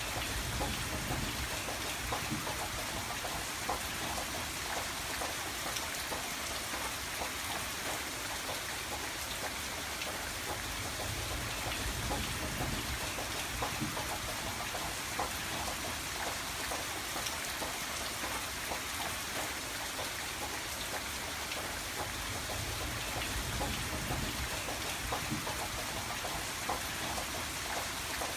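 Steady rain falling on a window, a continuous hiss with many small drop ticks and a low rumble that swells and fades every few seconds.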